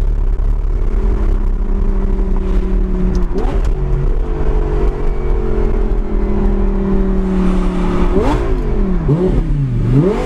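Audi R8's 5.2-litre FSI V10 through a Fabspeed valved exhaust, heard from inside the cabin over a low road and wind rumble. The engine pulls with a steady note that jumps about three seconds in. Near the end it revs up and down several times in quick succession.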